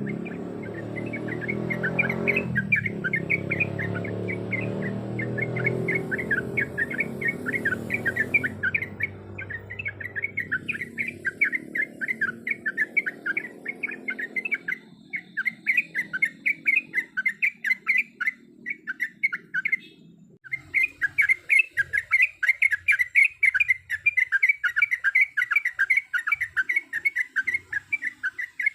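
Yellow-vented bulbul (trucuk) singing a fast, unbroken chatter of short chirping notes, about five a second, with a brief pause about two-thirds of the way through. A low background rumble runs under the song during the first half and fades out.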